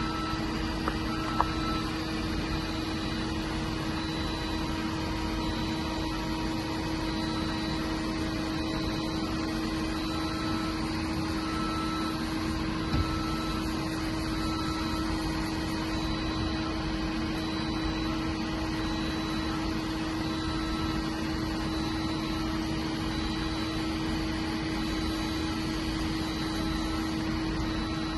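DMG MORI NLX 2500 SY/700 CNC lathe running with a steady hum and one strong constant tone, a faint high tone pulsing on and off at an even pace, and a couple of light clicks.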